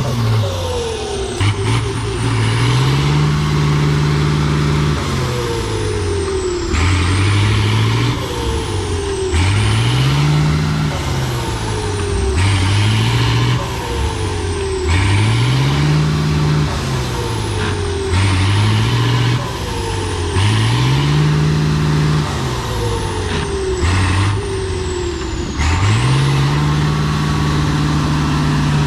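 Heavy off-road trial truck's engine revving up, holding and dropping back over and over, about every two to three seconds.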